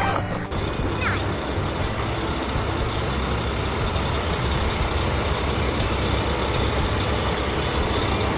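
Heavy truck engine running steadily at an even level, a sound effect for a construction vehicle.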